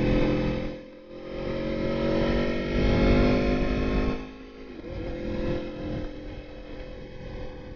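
Aprilia Tuono motorcycle engine under acceleration. The revs cut briefly about a second in as for a gear change, climb again, and the throttle rolls off at about four seconds, after which the engine runs lower and steadier.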